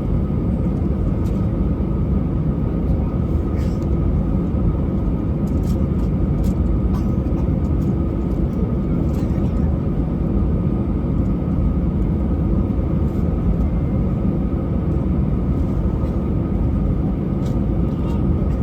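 Airbus A320 cabin noise: a steady, loud rumble of the jet engines and airflow with a constant hum over it and a few faint ticks and rattles.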